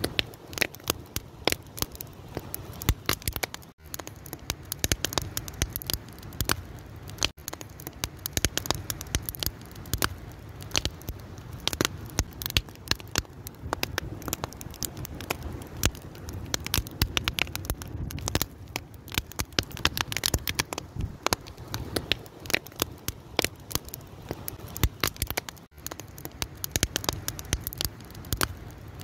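A fire crackling steadily, with a dense, irregular run of sharp pops and snaps over a low rumble of flames.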